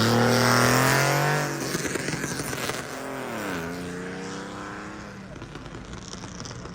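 A car engine revving hard as the car accelerates away. Its pitch rises, drops at a gear change about three seconds in, rises again, and fades as the car gets farther off.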